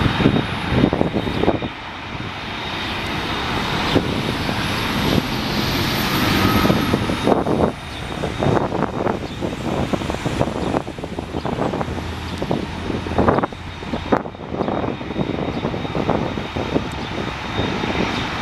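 Aircraft engines passing: a dense engine rush that swells to its loudest about five to seven seconds in, with a high whine rising and falling over it.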